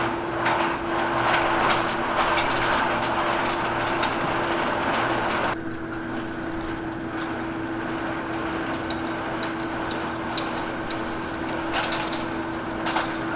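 Audience clapping for about five and a half seconds, cutting off suddenly, then scattered knocks on the wooden stage over a steady electrical hum from the sound system.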